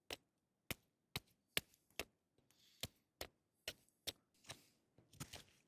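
A knife whittling a dry stick: a series of sharp clicks, about two a second, as each stroke cuts off a shaving, some with a short scrape after them.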